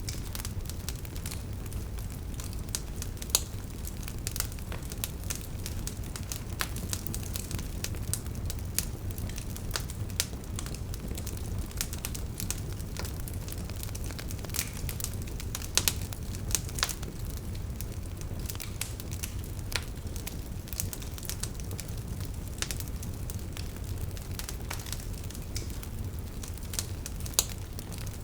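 Burning wood logs crackling and popping over a low steady rumble of flames, with a few louder sharp pops among many small crackles.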